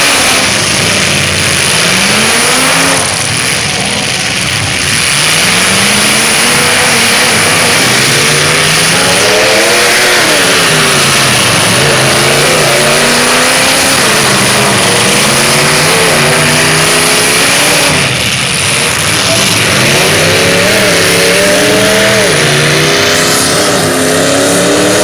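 Demolition-derby car engines revving hard through open exhaust stacks, their pitch rising and falling again and again as the cars push and spin their wheels. A steady noisy hiss of spinning tyres runs underneath.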